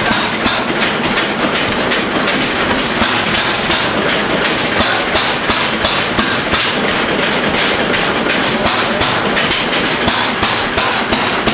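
Old stationary engine running, with a fast, even train of sharp exhaust beats at about three to four a second.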